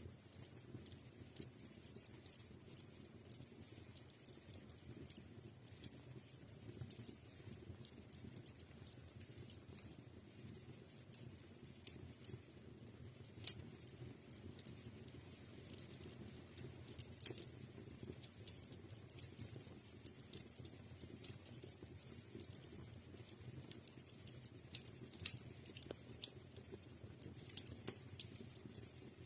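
Wood fire crackling in a fireplace: irregular sharp pops and snaps, a few louder than the rest, over a low steady hiss.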